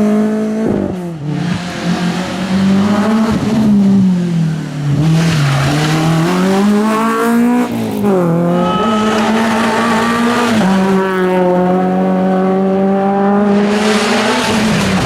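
Rally car engine at high revs, pitch climbing and falling through corners, with sharp drops at gear changes, the clearest about eight seconds in and again near eleven seconds.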